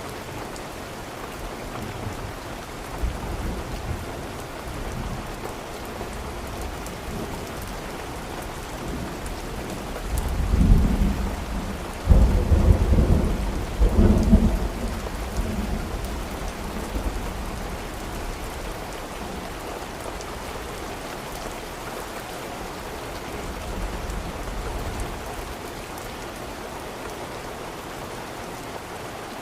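Steady rain falling, with a low thunder rumble that builds about ten seconds in, peaks in a few surges and fades out a few seconds later.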